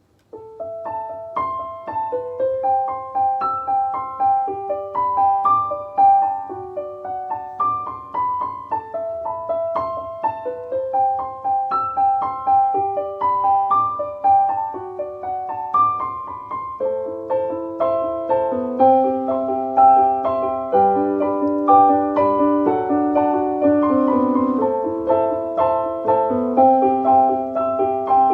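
Solo piano playing an instrumental melody, starting about half a second in with single notes, then joined by lower notes from about halfway through.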